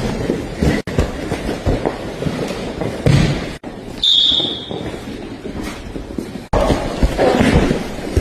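Grappling on mats: bodies thudding and scuffling in a fast scramble, broken by three abrupt cuts. A short high beep-like tone sounds about four seconds in.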